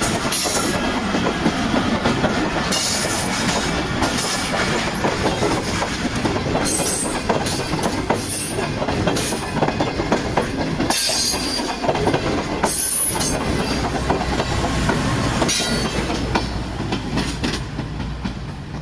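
Karakoram Express railway coaches rolling slowly past, the wheels clattering over the rail joints with short, frequent wheel squeals. The train is running at caution speed over badly maintained track.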